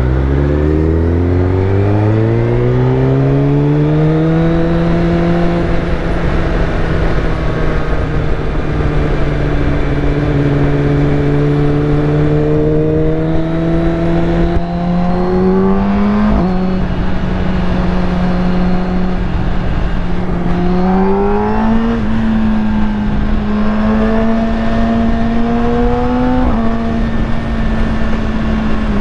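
Kawasaki Ninja ZX-10R inline-four sport bike engine through a full titanium aftermarket exhaust, revving up from low revs over the first few seconds, then riding at steady mid revs. Its pitch steps up and down briefly about halfway through and again a few seconds later, as the throttle and gears change.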